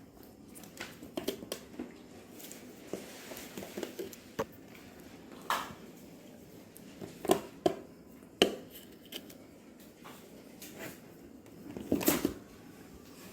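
Small homemade cardboard fridge magnets being clicked onto a metal fridge door one after another. The clicks and taps come at irregular intervals, with light handling noises in between.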